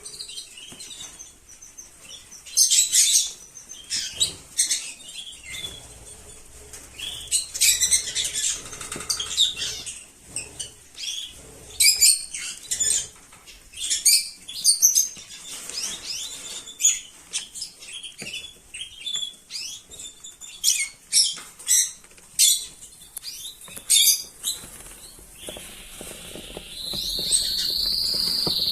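Rosy-faced lovebirds calling: short, shrill chirps repeating irregularly, with a steady high-pitched sound beginning near the end.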